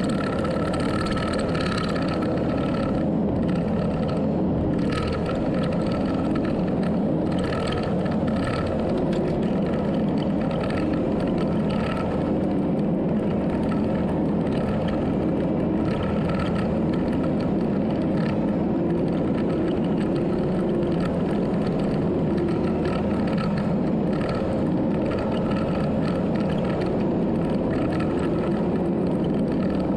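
Heavy earthmoving machine's diesel engine running steadily under load, with a higher whine that comes and goes every second or two.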